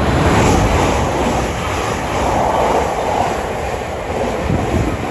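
Thameslink Class 700 electric multiple unit passing through the station at speed: a loud, steady rumble of wheels on rail and rushing air.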